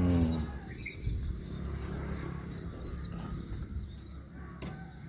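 Domestic pigeons cooing, with a louder coo at the start, while small birds chirp repeatedly in short high calls.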